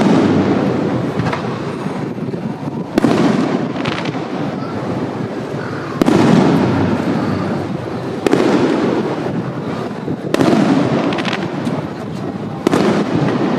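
Aerial fireworks shells bursting: about six sharp booms, two to three seconds apart, each followed by a long rumbling decay.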